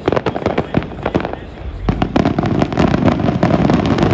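Aerial fireworks: a rapid stream of sharp crackling cracks, then a deep boom about two seconds in followed by a dense, continuous crackle.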